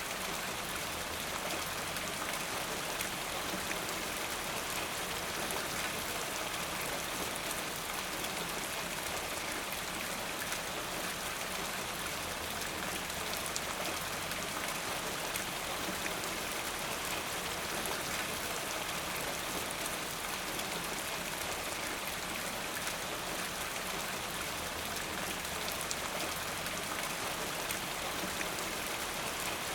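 Steady rainfall, an even hiss with dense patter of drops.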